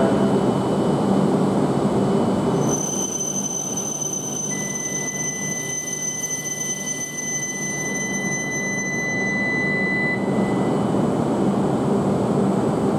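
Tohoku Shinkansen train running at the platform: a steady rumble from its wheels and running gear, with thin high electrical whines over it. A clear whistle-like tone sets in about four seconds in and stops sharply around ten seconds.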